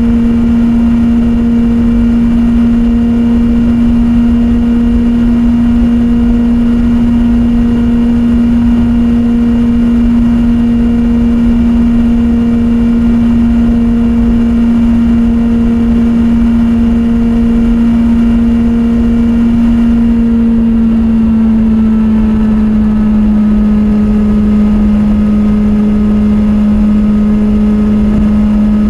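Kawasaki Z800's inline-four engine and exhaust running at steady revs under way, one even tone held flat, then dropping slightly about twenty-one seconds in.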